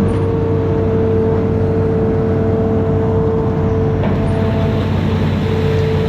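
Amphibious excavator's diesel engine running steadily under load, a low drone with a steady higher whine over it that drops out briefly near the end.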